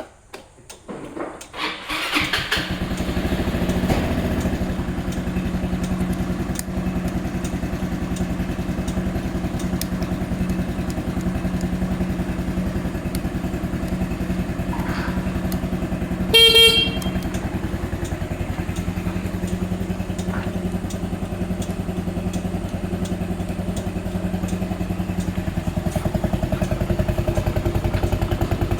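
Yamaha Majesty 125 scooter's single-cylinder four-stroke engine being cranked and catching about two seconds in, then idling steadily. About halfway through, the scooter's horn sounds once, briefly.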